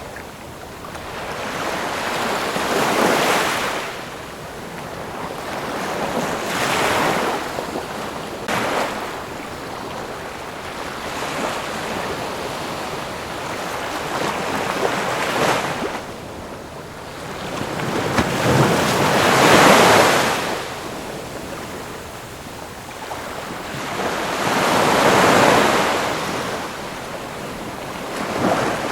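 Ocean waves breaking and washing up the shore in slow swells of hiss every few seconds, the biggest surges coming about two-thirds of the way through and near the end.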